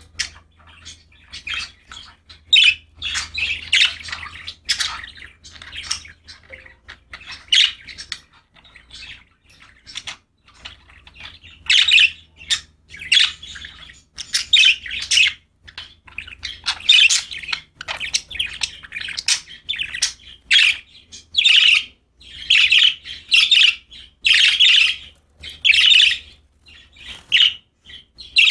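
Pet budgies chirping and squawking in short, rapid calls, sparse at first and coming thick and fast from about halfway through.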